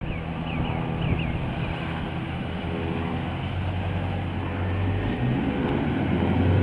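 The 392 HEMI V8 from a 2017 Dodge Challenger SRT, fitted in a 1969 Plymouth Road Runner body, idling steadily with a deep, even note that rises slightly about five seconds in. A few short high chirps sound over it in the first two seconds.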